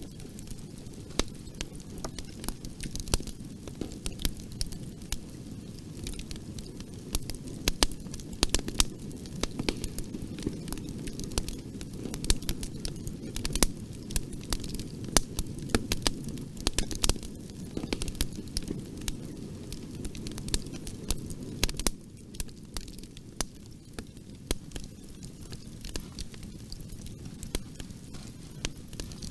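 Wood fire crackling: frequent sharp pops and snaps over a steady low rumble of burning, easing slightly near the end.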